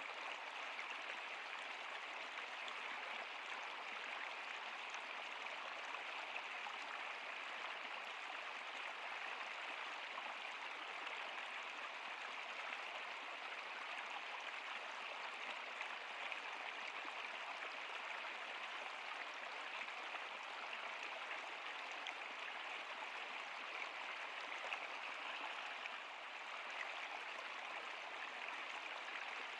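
Stream water running steadily, an even, unbroken rushing hiss.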